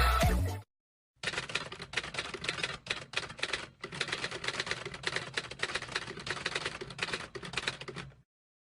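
Rapid dry clicking like typewriter keys, in runs with a few short breaks, starting about a second in and stopping shortly before the end.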